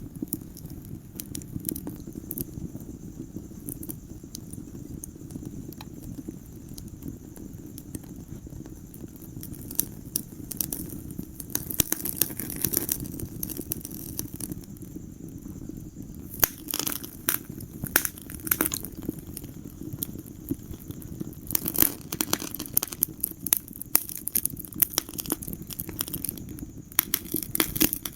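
Wood fire burning in a fireplace: a steady low rumble of flames with frequent sharp crackles and pops from the logs, coming in denser clusters every few seconds.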